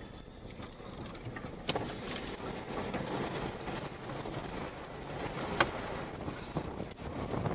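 Gusty rear-flank downdraft wind rushing and buffeting the microphone, swelling about two seconds in, with two sharp knocks about four seconds apart.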